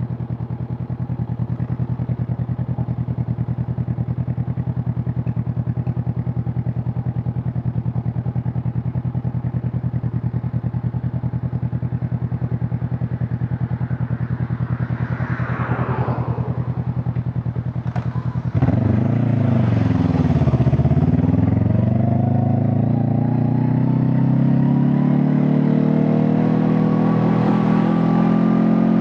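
Honda CB500 Hornet parallel-twin engine idling steadily, then pulling away a little past halfway. The revs dip briefly as the clutch takes up, then climb steadily as the motorcycle accelerates in gear.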